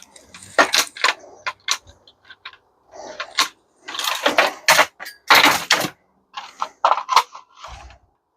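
Metal parts and tools clicking, clinking and clattering as a dishwasher is pulled apart for scrap, in an irregular run of knocks that is busiest about four to six seconds in.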